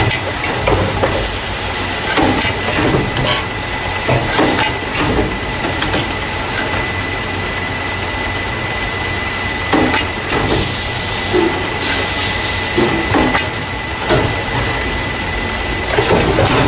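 A carton caser running: the machine that transfers paper juice and milk cartons into plastic crates. It makes irregular clacks and knocks from its moving parts over a constant high whine and a hiss that swells for a couple of seconds midway.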